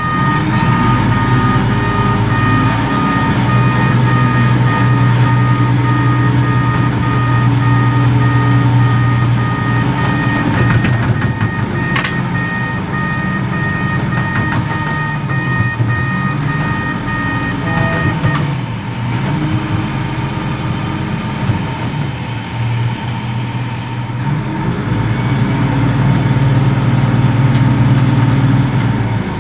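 Reach stacker's diesel engine running and working, rising and falling in level as it takes load, with a repeating warning beeper that stops about two-thirds of the way through.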